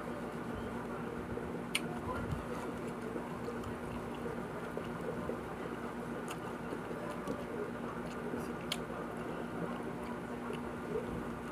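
Chewing and wet mouth sounds of a person eating fried chicken, with a few sharp clicks, over a steady low hum.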